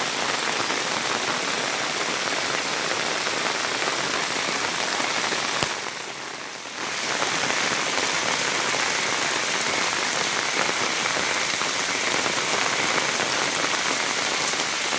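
Rain falling steadily, an even wash of noise. It dips briefly for about a second near the middle.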